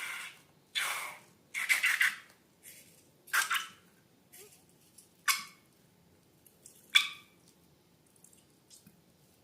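A string of short, sharp squishing and rustling sounds from hands working slime and balloon materials, each dying away within half a second; the loudest come about two seconds in and about seven seconds in.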